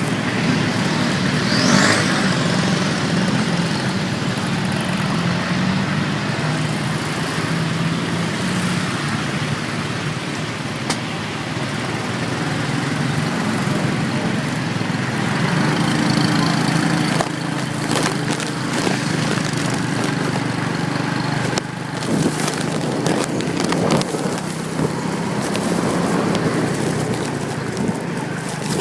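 Motorcycle engine running while riding, with road and wind noise; the engine note shifts up and down as the speed changes, with a few short knocks in the second half.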